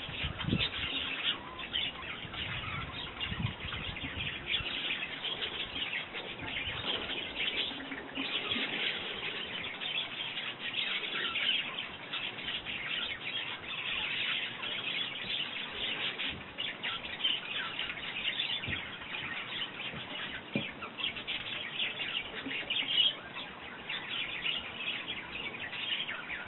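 Garden birds chirping busily, with many short overlapping chirps going on throughout.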